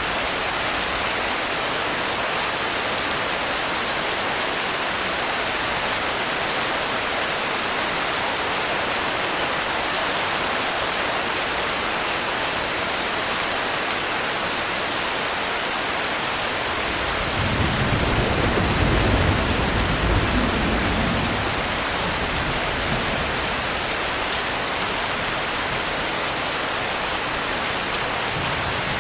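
Steady, even rainfall. About two-thirds of the way through, a low rumble of distant thunder swells up for about four seconds and fades.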